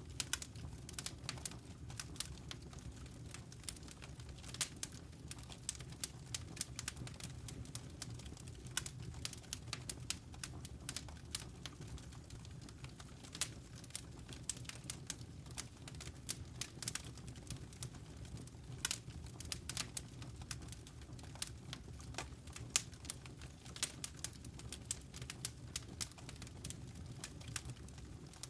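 Wood fire crackling in a fireplace: a dense, irregular run of sharp snaps and pops, several a second, over the steady low rumble of the burning fire.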